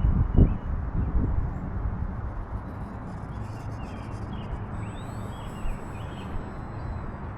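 Wind buffeting the microphone, in heavy gusts through the first second or so, then settling to a steady rush. Faint short high chirps sound over it later on.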